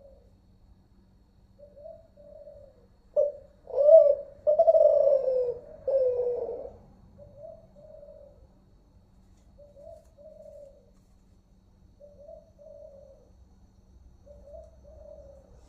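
Spotted dove cooing: soft, low coo phrases repeated every couple of seconds, with a louder run of coos about three to seven seconds in.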